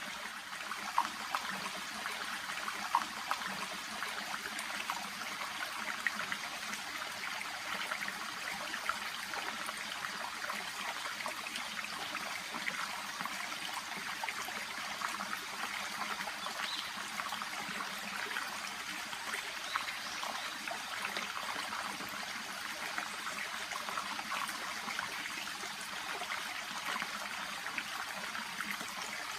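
A small, shallow stream babbling and trickling steadily, with many small splashes and gurgles and a couple of slightly louder splashes in the first few seconds.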